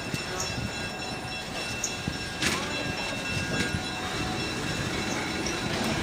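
Railroad cars rolling along the track in a steady rumble, with one sharp click about two and a half seconds in; the sound grows slightly louder toward the end.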